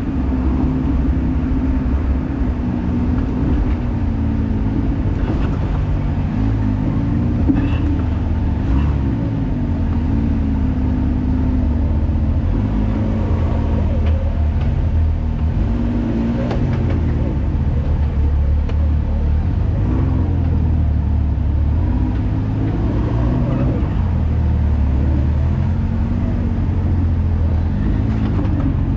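Can-Am Maverick X3 Turbo side-by-side's three-cylinder engine running at low speed, its revs rising and falling over and over, with a few sharp knocks from the machine working over the trail.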